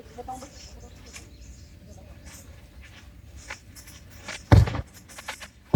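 Faint background voices and scattered small clicks, with one loud thump about four and a half seconds in.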